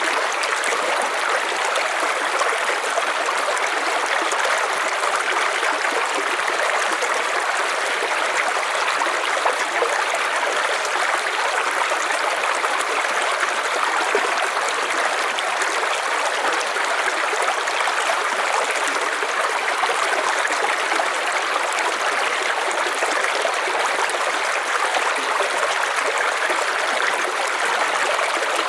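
River water running steadily over stones, an even rushing and babbling with no breaks.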